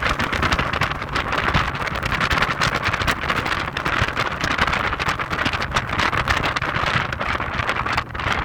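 Wind buffeting the microphone in irregular gusts over the steady low drone of an Audi TT 225 Quattro's 1.8-litre turbocharged four-cylinder engine and road noise while driving.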